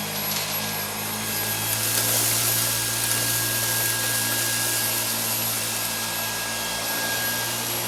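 Dyson V8 cordless stick vacuum running steadily at full speed, a high motor whine over the rushing hiss of suction, as it vacuums cake decorations off a carpet.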